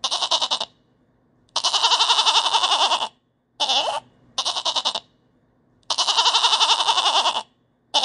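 Sheep bleating: five quavering bleats in a row, the second and fifth about a second and a half long, the others short.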